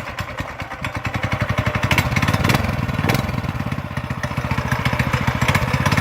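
Mini bike's small four-stroke single-cylinder engine running with a rapid, even firing beat, just started cold and warming up.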